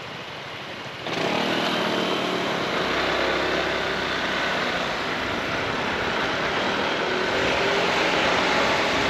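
Honda ADV 350 scooter's single-cylinder engine opening up under throttle, getting suddenly louder about a second in, with wind and road noise over it. The engine note climbs slightly near the end as it speeds up.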